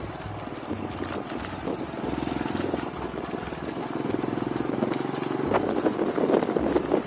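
Vehicle engine running through its exhaust muffler while driven on a test run, the exhaust note pulsing fast and getting louder for a while near the end.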